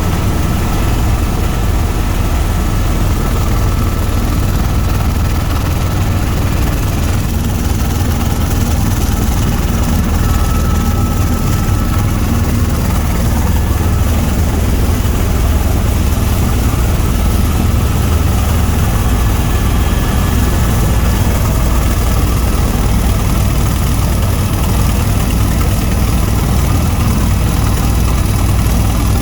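Tour helicopter in steady flight: its rotor and engine make a constant low drone with no change in pitch or level.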